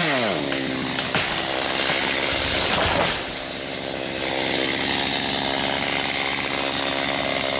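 Gasoline chainsaw cutting into a birch trunk. Its engine pitch drops as the chain bites into the wood in the first half second, then holds steady under load.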